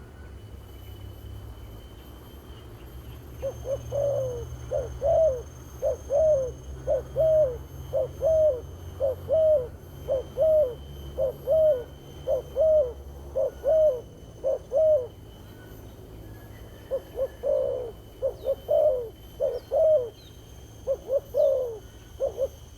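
Spotted dove cooing: a long run of short, arched coos, somewhat more than one a second, then after a brief pause a second, more uneven run of coos.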